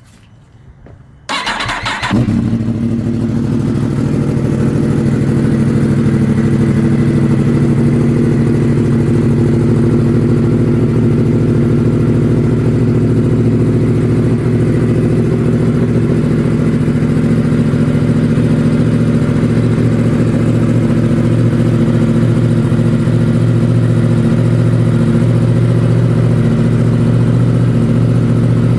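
Yamaha R1M's crossplane inline-four cranked on the starter about a second and a half in, catching almost at once, then idling steadily on a cold start.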